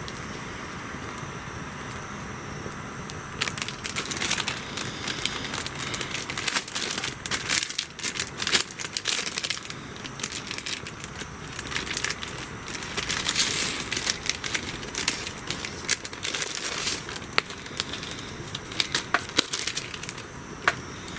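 Dense crackling and popping of something burning, with bursts of hiss, starting suddenly a few seconds in and thinning out near the end.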